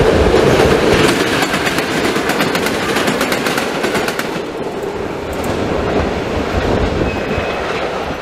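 EN57 electric multiple unit passing close by, its wheels clattering over rail joints and points in a quick run of clicks during the first few seconds. A steady rumble follows that slowly fades as the train moves away.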